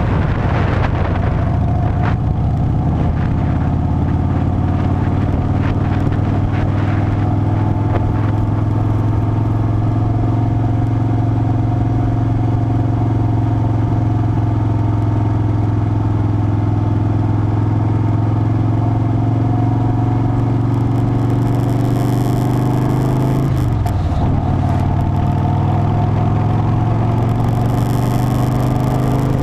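Harley-Davidson Softail Standard's V-twin engine running steadily under way, its pitch dipping briefly and climbing again near the end as with a gear change.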